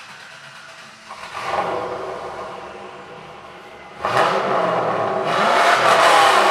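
2000 Camaro Z28's LS1 V8 through a new Flowmaster exhaust with no catalytic converters, revved once about a second in, then revved hard again from about four seconds in and held high.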